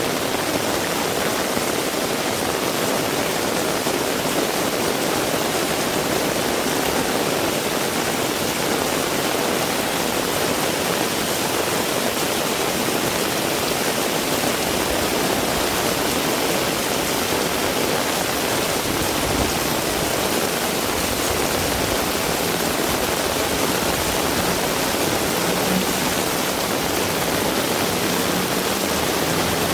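Heavy rain pouring steadily, an even hiss with no breaks. A faint low hum comes in near the end.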